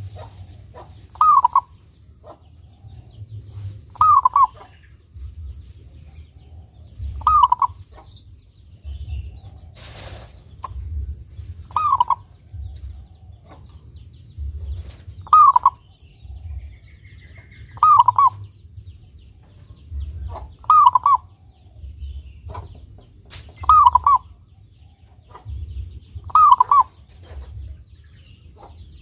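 Zebra dove (perkutut) cooing: the same short pitched phrase repeats about every two and a half to three seconds, over a low steady hum.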